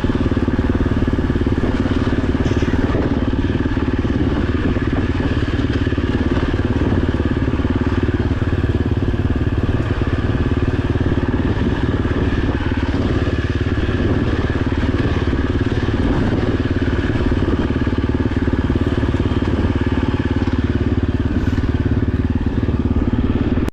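Dirt bike engine running at a fairly steady speed while riding a trail.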